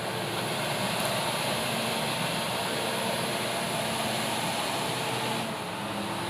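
Komatsu D68ESS bulldozer's diesel engine running steadily.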